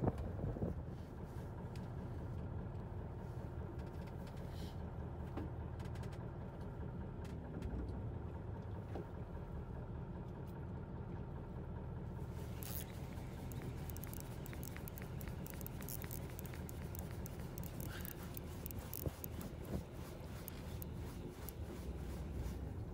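Fishing boat's engine running steadily with a low, even hum, with a few faint clicks and ticks over it.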